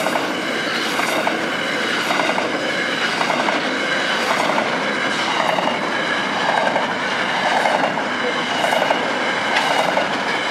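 Freight train's container wagons rolling past a level crossing, the wheels clattering over the rail joints in a regular rhythm about once a second, over a steady high-pitched ring.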